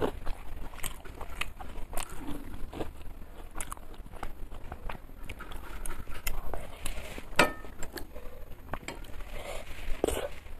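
Close-miked eating: chewing with scattered crisp clicks and crunches, and a louder sharp click about seven seconds in.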